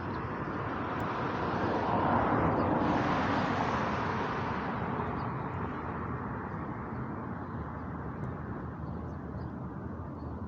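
A car passing by, its road noise swelling to a peak about three seconds in and then fading slowly away, over a steady low rumble.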